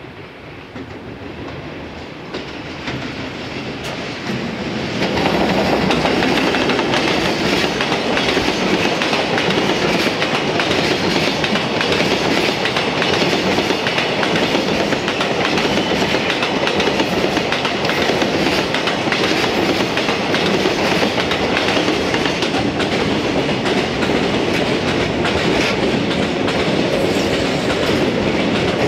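Container freight train hauled by an EF210 electric locomotive approaches and rolls past close by, wheels clacking over the rail joints. The sound swells over the first five seconds, then holds steady and loud as the wagons pass. Near the end a local electric train also passes close by.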